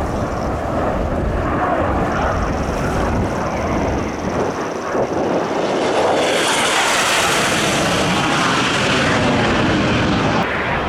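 Aermacchi MB-339 jet trainers flying past with the rushing whine of their turbojets. The jet noise swells sharply about six seconds in as the aircraft pass close, with a sweeping whoosh, then eases near the end.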